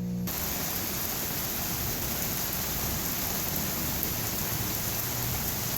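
Heavy rain falling steadily, a dense even hiss of rain on the ground and roof. It cuts in suddenly just after the start.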